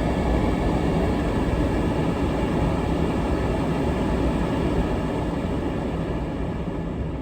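Vehicle driving slowly: a steady rumble of engine and tyres, easing off slightly near the end.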